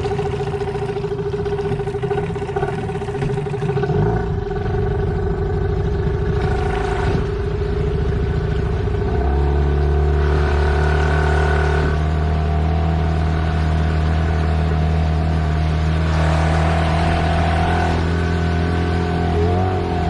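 A 15-horsepower outboard motor running steadily on an inflatable boat, its tone shifting to a lower, stronger steady drone about nine seconds in.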